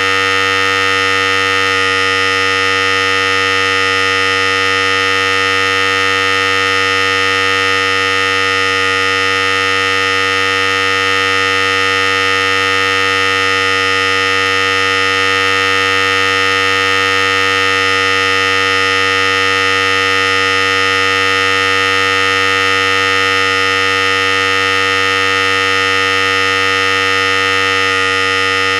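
Philips Series 5000 electric hair clipper running with a steady buzz.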